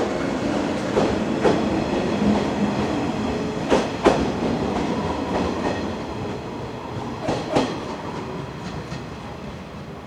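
Electric train running through a station, its wheels clacking over rail joints in pairs of clicks a few seconds apart, the rumble slowly fading as it moves away.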